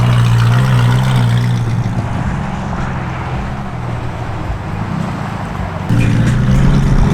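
Car engines running with a steady low exhaust note. The note eases slightly after the first couple of seconds, and a louder engine note comes in abruptly about six seconds in.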